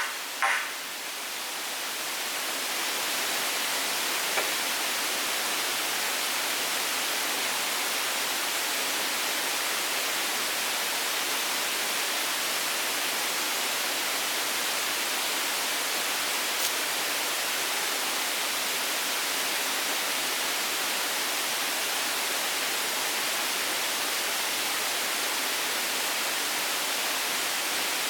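Steady rushing noise that fades up over the first three seconds and then holds even, after two sharp knocks at the very start.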